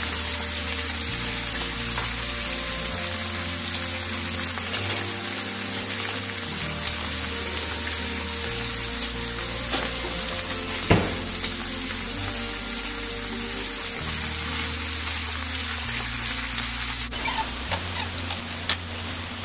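Thin beef slices frying in oil in a pan: a steady sizzle. Background music with a low bass line plays under it, and there is a single sharp knock about eleven seconds in.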